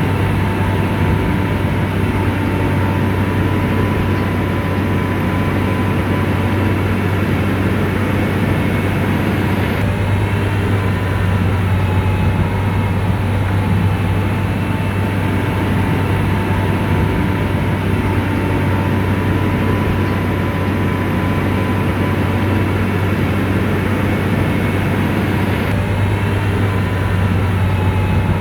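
Bulldozer's diesel engine running steadily, a constant low drone with a faint higher whine above it.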